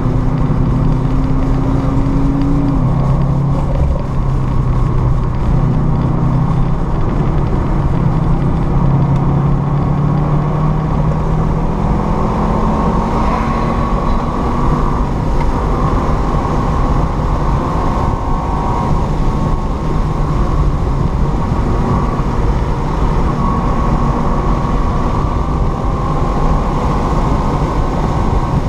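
Car engine heard from inside the cabin, pulling under heavy throttle on a long straight, its pitch climbing slowly as the revs rise toward 6,000 rpm, over steady wind and tyre noise.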